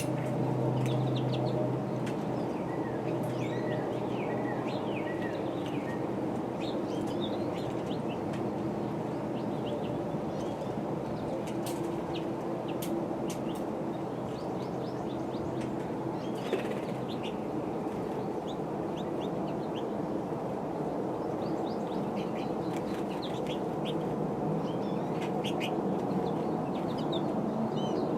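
Small birds chirping in short, scattered calls over a steady low background hum, with a few brief clicks or wing flutters.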